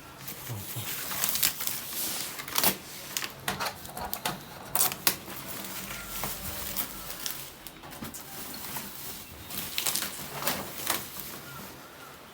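Irregular rustling, clicking and knocking of packing material being handled as a boxed copier is unpacked.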